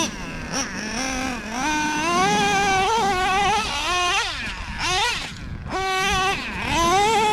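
OS .21TM two-stroke nitro glow engine in a Traxxas Revo 3.3 RC monster truck, revving up and down in repeated throttle bursts. Its high-pitched whine rises, holds, then drops off about three times as the truck is driven.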